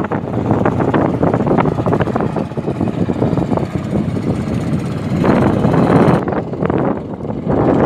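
Wind buffeting the microphone in gusts, a loud rumbling noise with crackles.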